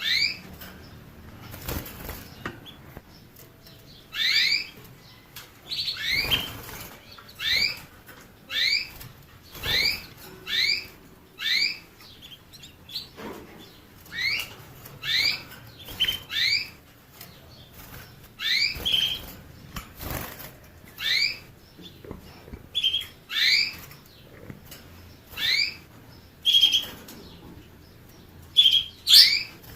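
A songbird calling over and over with short, sharp, upward-sweeping chirps, about one a second, now and then joined by a brief buzzier note. A few short flutters or clicks come between the calls.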